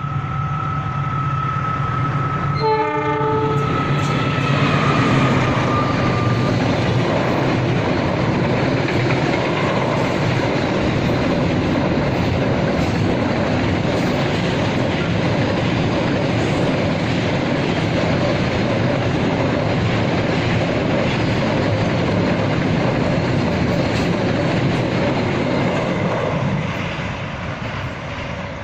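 A freight train's horn sounds once briefly about three seconds in, over a steady high-pitched tone that fades out by about six seconds. The train then passes, its wagon wheels clattering over the rails in a loud, steady rush that drops off near the end.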